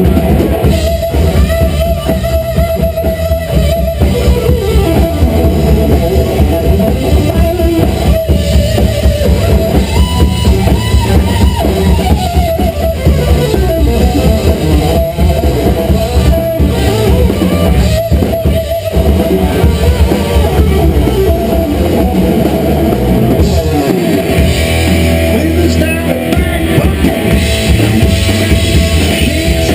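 Loud rock music with electric guitar, drum kit and singing, playing without a break.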